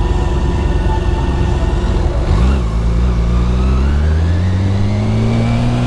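BMW K1600B's 1,649 cc inline-six idling, then pulling away about two seconds in, its note rising steadily as it accelerates.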